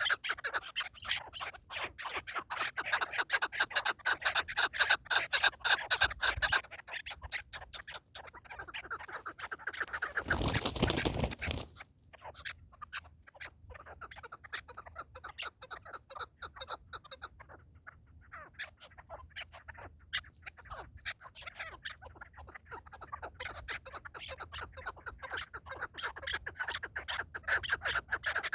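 Partridges calling in a rapid run of clucking notes that thins out mid-way and picks up again near the end. About ten seconds in, a loud rushing noise lasts a second or so.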